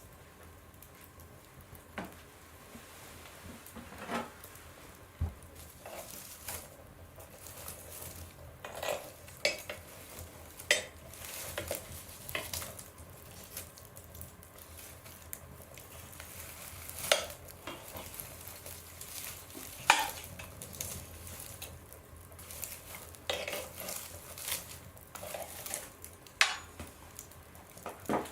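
A fire burning in a stove's firebox, crackling with irregular pops and snaps over a soft steady hiss, a few snaps much louder than the rest.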